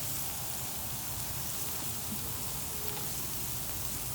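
Meat sizzling on a grill, a steady hiss.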